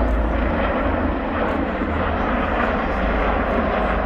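Airbus H145 twin-turbine helicopter flying overhead: a steady rush of rotor and turbine noise.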